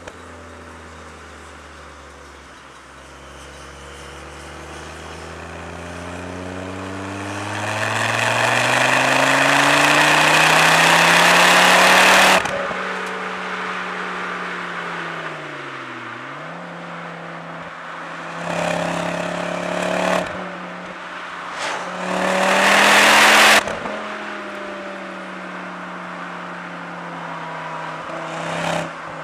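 Tuned Ford Focus ST's turbocharged five-cylinder engine through a Milltek resonated exhaust. A long pull under throttle climbs in pitch and grows loud, then drops off sharply on lifting off. The revs dip and recover, two short bursts of throttle follow, and the revs fall away near the end.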